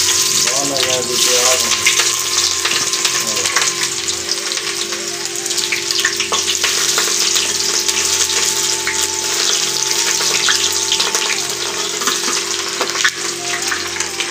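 Chopped onion and green chillies sizzling and crackling as they fry in hot cooking oil in a pot, stirred with a metal ladle.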